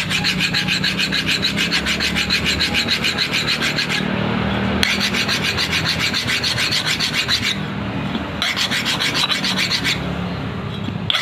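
A hand file rasping back and forth on a ketinting boat-engine propeller blade, in quick even strokes about three or four a second. The filing comes in three bouts with brief pauses between them.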